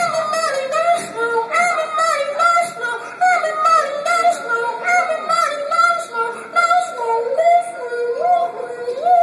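A beatboxer voicing a high, wavering melody line with his voice while beatboxed mouth percussion clicks and snaps along in a steady rhythm.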